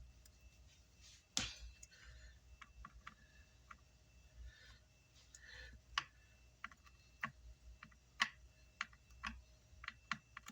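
Faint, irregular clicks and light taps of handling at the repair bench, with a sharper tap about one and a half seconds in.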